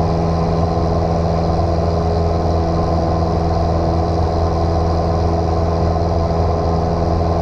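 Single-engine light aircraft's piston engine and propeller droning steadily at cruise power.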